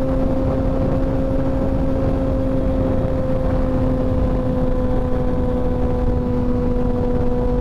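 Motorcycle cruising at steady speed: rushing wind noise with the engine's steady hum, its pitch creeping up very slightly.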